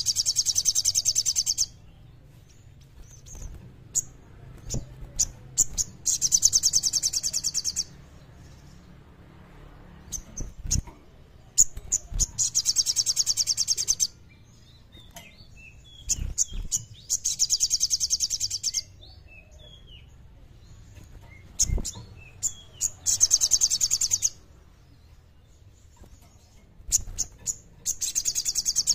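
Songbird sold as 'sogon' singing its clear 'kleper' song: a high, rapid trill of about two seconds repeated roughly every five to six seconds, with short chirps and calls between the trills.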